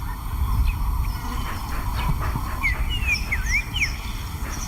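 A lion's low, rough growling, with a few short bird chirps over it in the second half.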